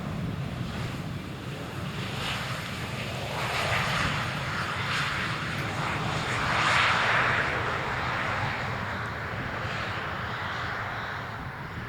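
Jet airliner turbofan engines of a KLM Embraer E190 with a rushing hiss that swells to its loudest about seven seconds in and then eases off, over a steady low rumble.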